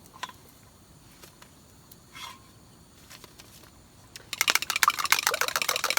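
A few light clicks and a knock of utensils and pan, then, a little over four seconds in, a loud, dense sizzle and crackle as the omelet egg mixture goes into the hot frying pan on the camp stove.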